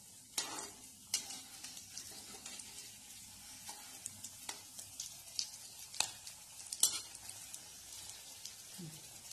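Potato cutlets sizzling as they shallow-fry in hot oil in a metal kadai, with sharp clinks and scrapes of a metal perforated skimmer against the pan as the cutlets are turned over. The loudest clink comes near the end.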